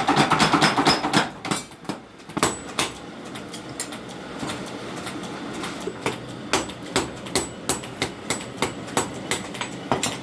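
Blacksmith forging hot steel: a fast, even run of hammer blows, about six a second, stops a little over a second in. After a short pause, slower, irregular hammer strikes on metal follow, about two a second, some with a high ring from the anvil.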